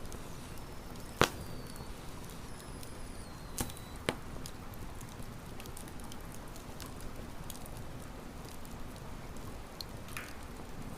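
Wood campfire crackling: a steady hiss with scattered sharp pops, the loudest about a second in and two more around four seconds.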